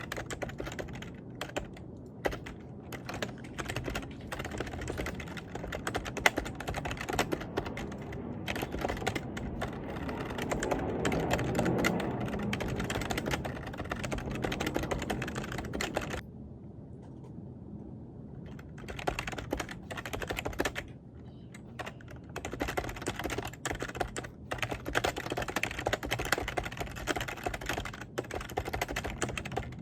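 Rapid typing on a computer keyboard, a steady clatter of keystrokes. A low rumble swells under it around the middle. The typing stops for about three seconds a little past halfway, then resumes.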